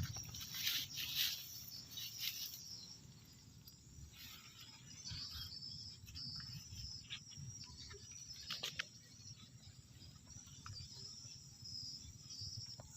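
Faint insects chirring in a field, with rustling and brushing sounds in the first two or three seconds and a single sharp click about two-thirds of the way through.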